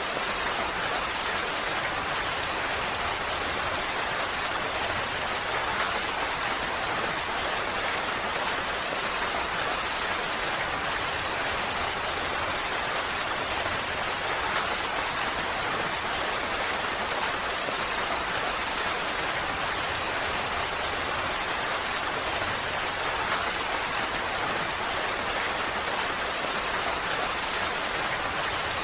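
Steady rain falling and pattering on surfaces, an even hiss with a few faint drop ticks.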